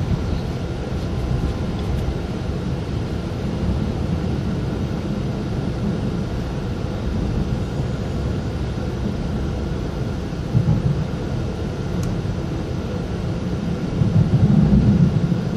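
Cabin running noise of a GYSEV Ventus electric train in motion: a steady low rumble. It swells louder briefly about ten seconds in and again near the end.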